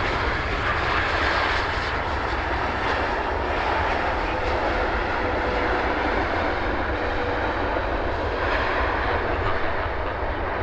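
Jet engines of an Airbus A330-300 airliner running with a steady rush of noise and a faint steady whine through the middle.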